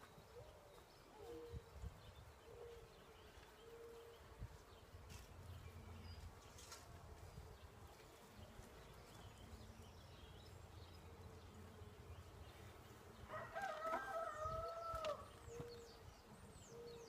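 A rooster crows once, about two-thirds of the way in: a single call of about two seconds ending in a falling note. Under it are faint clicks and brief hums.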